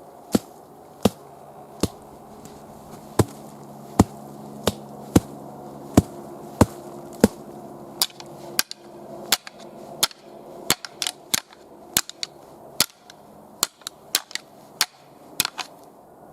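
A run of sharp, short taps at an uneven pace, about two a second, over a faint steady hum.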